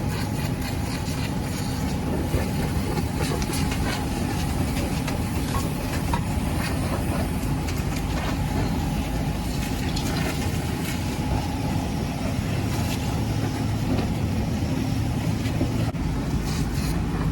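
Fire engine's diesel engine running with a steady low rumble, with faint scattered clicks and knocks over it.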